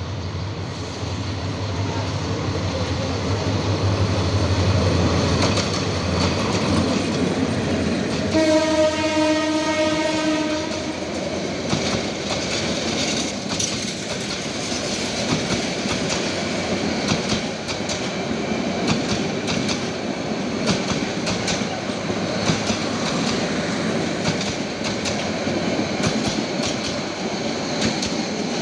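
Bangladesh Railway diesel-hauled passenger train, the Kalni Express, approaching with its engine humming. It sounds one long horn blast about eight seconds in, then its coaches roll past with a steady rumble and rhythmic clickety-clack of wheels over the rail joints.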